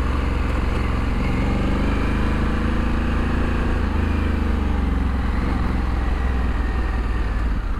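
Honda Africa Twin's parallel-twin engine running through its stock exhaust under way: the engine note climbs over the first few seconds, dips about four seconds in, then holds steady.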